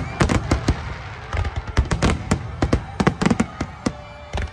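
Aerial firework shells bursting in a rapid, irregular string of bangs, many in quick clusters, each with a short rumbling tail.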